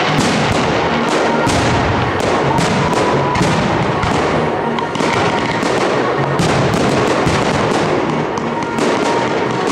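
Aerial firework shells bursting in rapid succession: a dense run of bangs and crackles with hardly a pause between them.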